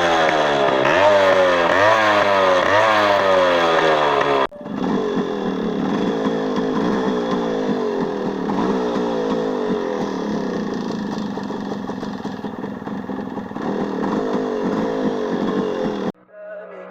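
Yamaha RX135 two-stroke single-cylinder motorcycle engine revved in a few quick throttle blips, then, after a sudden cut about four and a half seconds in, running steadily. Near the end it drops away to a faint steady hum.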